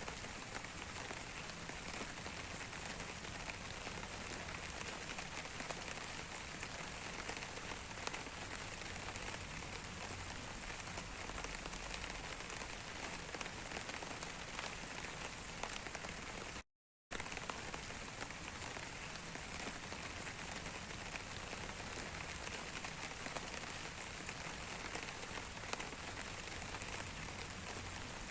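Steady rain falling, with many individual drops ticking through an even hiss. The sound cuts out completely for a fraction of a second about two-thirds of the way through, then resumes unchanged.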